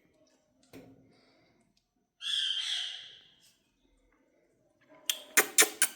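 A pet parrot gives one harsh squawk lasting about a second. Near the end comes a quick run of sharp taps or clicks.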